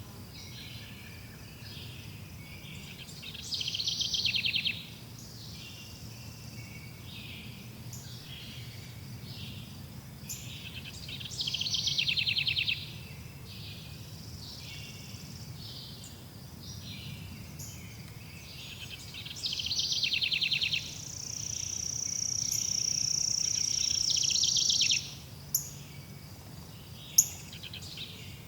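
Forest birds chirping and calling, with a loud rapid trill recurring about every eight seconds. Near the end a long, high, steady buzz grows louder for a few seconds and then cuts off, over a low steady background rumble.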